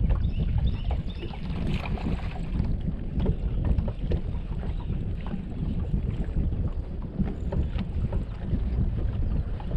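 Wind buffeting the microphone: a steady, gusting low rumble with small knocks scattered through it.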